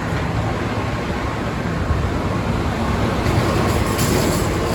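Brightline passenger train running with a steady low rumble, a high hiss coming in near the end.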